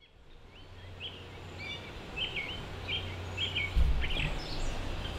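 Wild birds singing in woodland, a bird repeating short chirping phrases about every half second, over a steady low rumble. The sound fades in over the first second, and a low thump comes a little under four seconds in.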